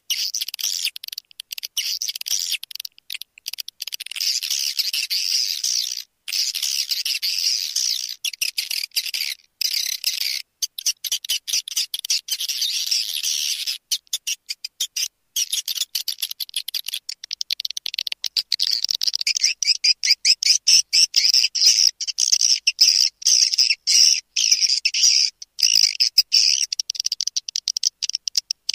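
Swiftlet lure call: rapid, dense, high-pitched twittering chirps, with a few short breaks and louder calling in the second half. It is a recorded swiftlet calling sound of the kind played to draw swiftlets into a nest house.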